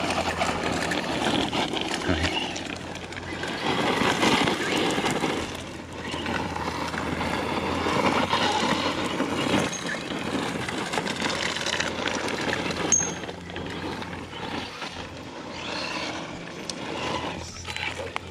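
Redcat Volcano EPX RC truck with a brushless motor driving over the ground, its motor and tyres getting louder and quieter as it speeds up and slows down.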